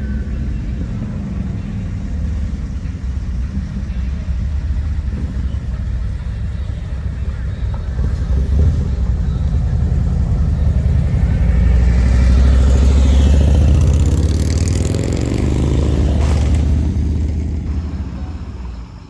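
A car's engine and exhaust rumbling as it rolls past at low speed. The rumble grows louder from about eight seconds in, is loudest a little past the middle as the car goes by, then fades quickly near the end.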